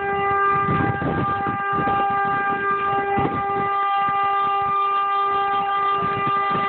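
A car horn blaring in one continuous steady tone, with a few knocks and rustles underneath.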